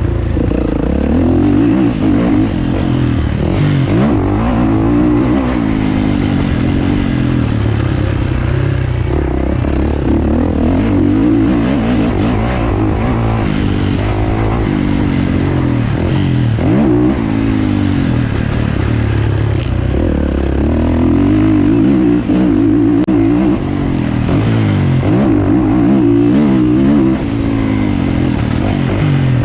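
450cc motocross bike engine revving hard and backing off again and again, its pitch rising and falling with the throttle as it is ridden around the track.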